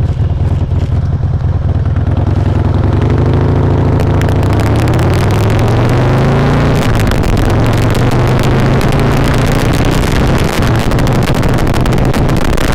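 Harley-Davidson V-twin engine pulling the motorcycle up to speed, its pitch climbing for several seconds and then holding steady at cruise, with wind buffeting the helmet mic more as speed builds. The audio runs hot from a helmet-mounted mic that clips.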